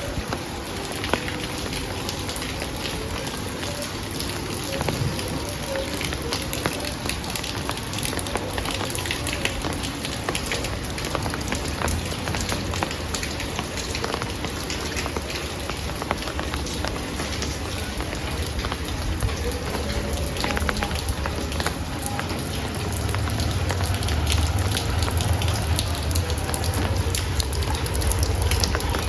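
Heavy rain falling steadily, a dense hiss of many drops striking a surface. A low rumble builds underneath in the last few seconds.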